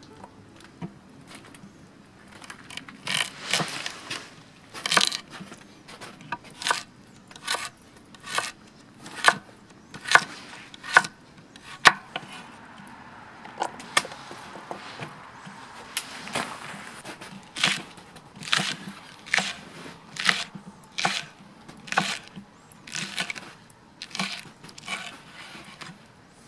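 Firewood being chopped with an axe: a series of sharp wooden cracks and knocks, irregular and roughly one a second.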